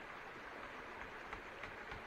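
Steady hiss of light rain, with a few faint ticks in the second half.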